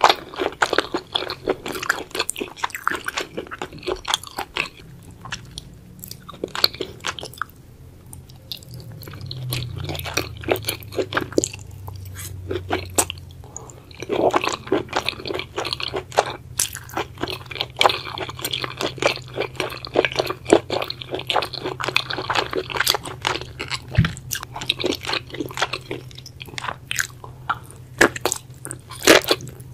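Close-miked chewing of a mouthful of spicy braised octopus and seafood: a dense run of wet clicks and smacks, with a brief lull about seven seconds in.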